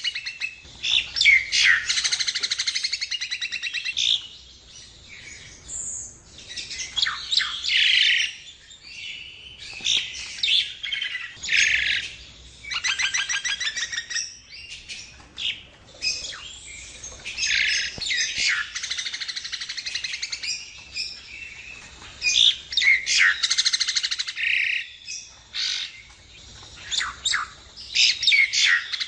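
Nias hill myna singing: loud bursts of rapid chattering trills and sharp whistled notes, broken by quieter gaps of softer calls.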